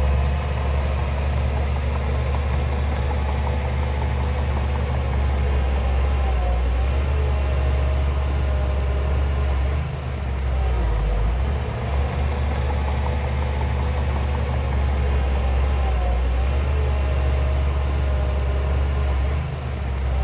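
Heavy diesel engine of earthmoving machinery running steadily with a deep low rumble, its pitch wavering slightly under load. It briefly dips in loudness about halfway through and again near the end.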